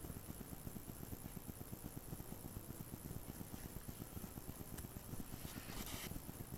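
Faint room tone with a fluttering low rumble, a single click, and a short rustle about a second before the end.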